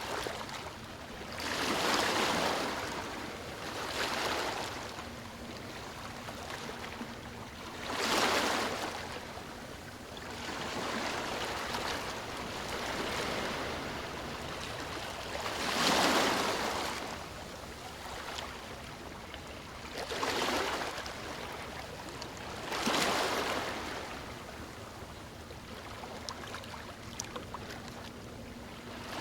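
Sea waves washing onto a beach, each wave rising to a rush and falling back, about seven in a row, the loudest about eight and sixteen seconds in.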